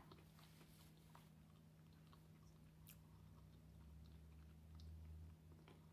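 Faint, close mouth sounds of a person chewing a bite of egg and cheese sandwich with the mouth closed: small soft clicks scattered through, over a steady low hum. A low rumble comes in about four seconds in and stops about a second later.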